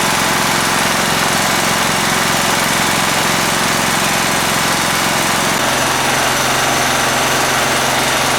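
John Deere L160 lawn mower's single-cylinder Kohler engine running steadily, its rod knock from a badly worn crankshaft being damped by thick Lucas Oil Stabilizer mixed into the oil. The engine note shifts about five and a half seconds in.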